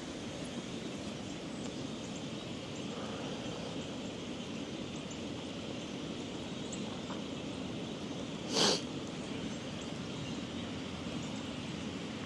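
Steady wind noise buffeting the microphone, with one short, louder rush of noise about eight and a half seconds in.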